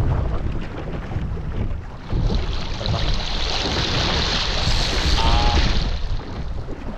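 Wind buffeting the microphone with a steady low rumble aboard a sailboat under way, and water rushing and hissing along the hull from about two seconds in to about six seconds in. A brief faint pitched sound comes about five seconds in.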